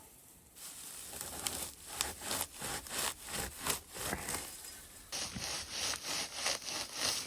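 Hand saw cutting through wood in quick, rhythmic back-and-forth strokes, about two to three a second, with a change in tone about five seconds in.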